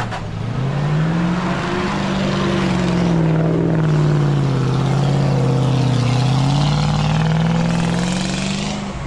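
GAZ-66 truck's V8 petrol engine pulling hard under load off-road. The revs climb, sag slowly to a low point about six seconds in, then climb again near the end.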